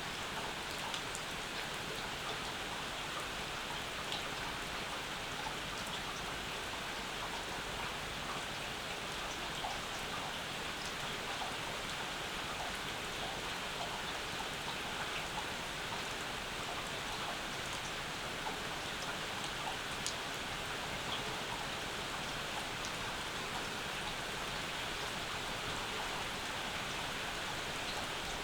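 Steady summer rain falling, with scattered individual drops tapping sharply close by.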